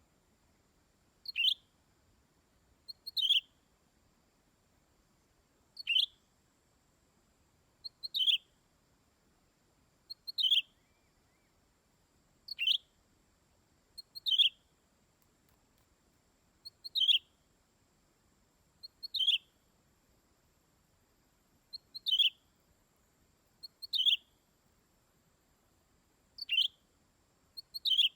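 Green leafbird (cucak ijo) giving a short, sharp call that drops in pitch, repeated about every two seconds, most calls led by a quick softer note.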